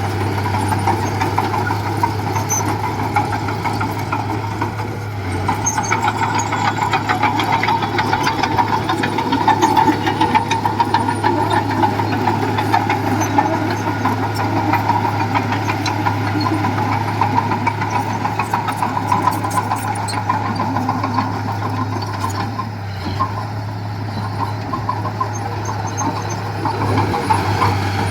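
Diesel engine of heavy construction machinery running steadily for the whole stretch, with a dense, rapid clatter over a steady low hum.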